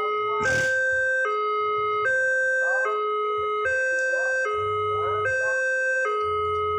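Electronic two-tone warning alarm of a railway level crossing, sounding steadily with the high and low tones swapping about every 0.8 s, the sign that the crossing is active and a train is due. A brief noisy burst comes about half a second in.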